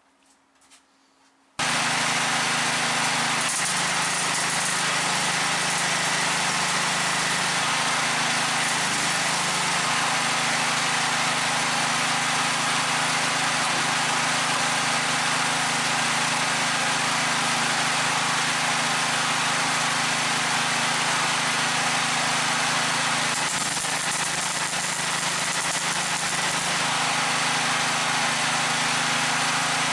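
A steady mechanical noise with a low, even hum starts abruptly about a second and a half in and runs on without a break, like a motor-driven workshop machine running.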